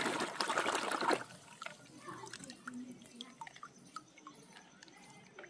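Running water that stops about a second in, followed by scattered small drips and plinks.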